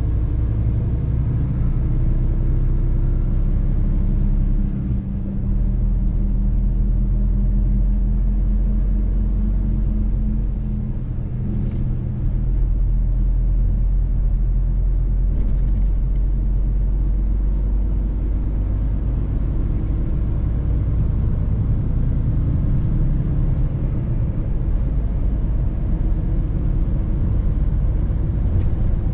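Mercedes-Benz truck's diesel engine running steadily with road noise while driving, the level dipping briefly about five seconds in and again around eleven seconds.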